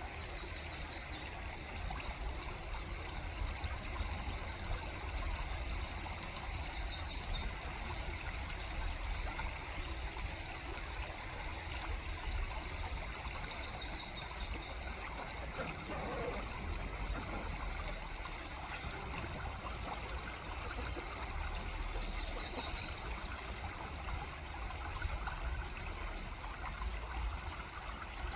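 Steady trickling, rushing water, like a stream, with a low rumble underneath. A small bird's short high trill repeats every six to seven seconds.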